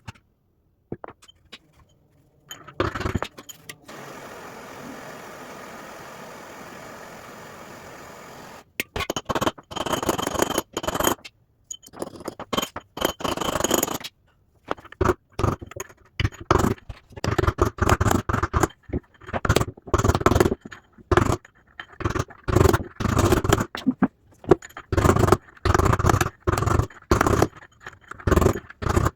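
Metal tools knocking and scraping repeatedly and irregularly against the washer's drum bearing as the old bearing is worked out of the LG front-load washer's tub. This comes after a steady, even whirring noise of about five seconds near the start.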